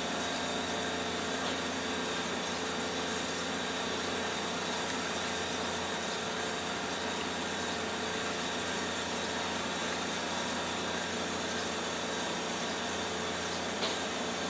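Steady drone of running machinery, holding many constant tones with no change in level, and a single faint click near the end.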